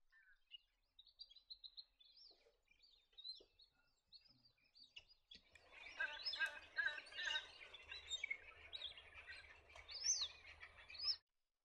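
A flock of plumed whistling ducks calling: scattered high whistles at first, then from about five seconds in a dense chorus of many overlapping whistling calls, which cuts off suddenly near the end.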